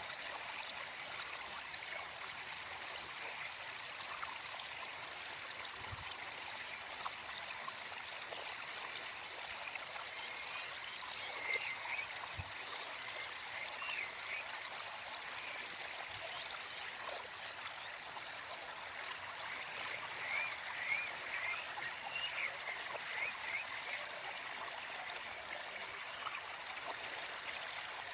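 Gentle forest stream flowing with a steady rush and trickle of water. Over it, a small songbird gives two bouts of short, quick, repeated high chirps, about a third of the way in and again about two-thirds through.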